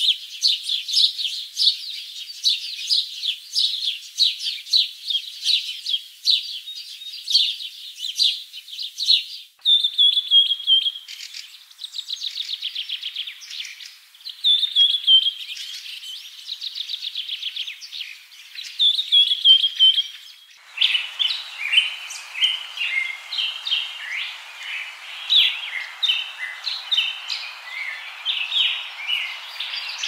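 Small birds singing with dense, quick chirps. About ten seconds in, a cut leads to a different passage of rapid trills and whistled notes. About twenty seconds in, another cut leads to busy chirping over a steady background hiss.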